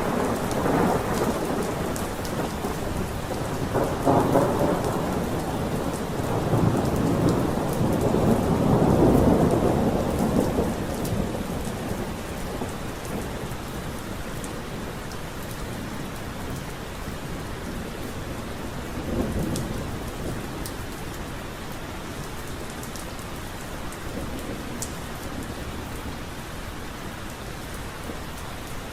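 Steady rain falling, with fine drop ticks. Thunder rolls through it in low rumbling swells: one about four seconds in, a longer, louder one from about six to eleven seconds, and a shorter one around nineteen seconds. After that the rain goes on alone.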